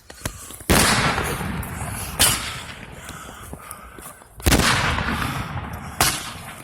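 Fireworks going off: four sharp bangs roughly one and a half to two seconds apart, each dying away over a second or so.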